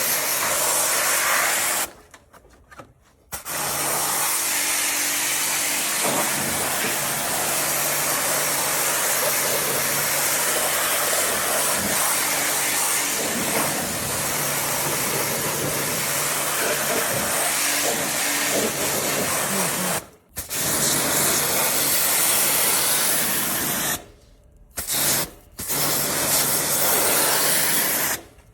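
Electric pressure-washer pump running with a steady hum while its water jet hisses, as when spraying an air conditioner's coils. It stops abruptly three times for a second or so before starting again.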